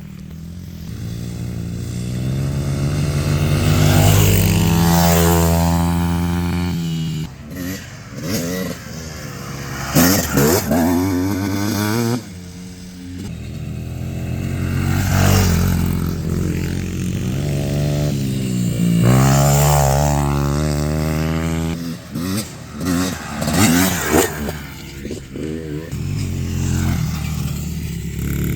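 Dirt bike engines revving as the bikes ride past one after another, several times over, each pass swelling in loudness and sliding in pitch as it goes by.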